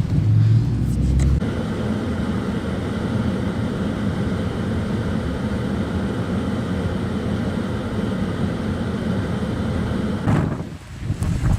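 Steady motor-vehicle noise, engine and road rumble with an even hum, with a heavier low rumble in the first second or so. Near the end it drops away and gusty wind noise takes over.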